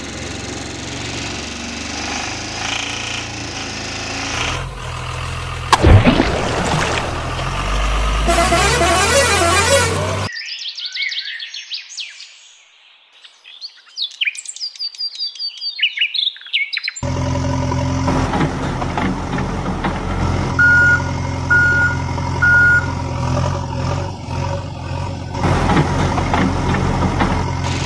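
Truck engine sound running steadily, with a sharp bang about six seconds in. Midway it gives way to a stretch of chirping, then the engine returns with three short horn beeps.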